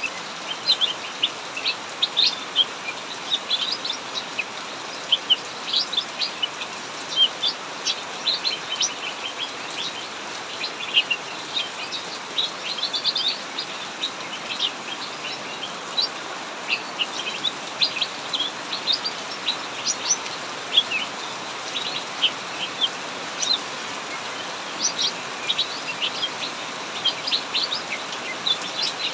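Small aviary songbirds, cucak mini, chirping and singing in quick, busy phrases over the steady hiss of heavy rain.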